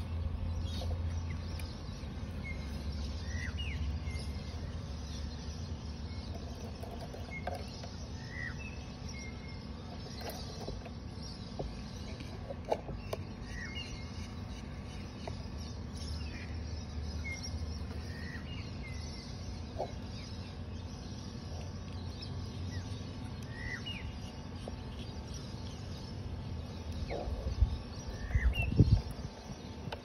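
Birds calling with scattered short chirps over a steady low rumble, with a few louder low bumps near the end.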